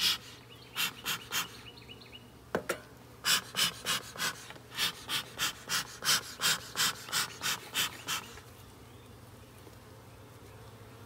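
Honeybees buzzing around an open hive, with a run of short breathy puffs, about three a second, for several seconds and one sharp click among them.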